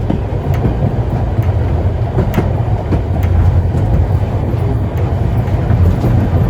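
Heritage steam train's carriages running along the track: a steady low rumble, with sharp clicks and knocks from the wheels and rails at uneven intervals.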